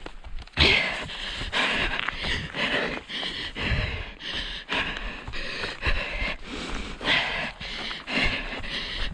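A runner breathing hard in quick, rhythmic panting breaths, over a low rumble of wind on the microphone.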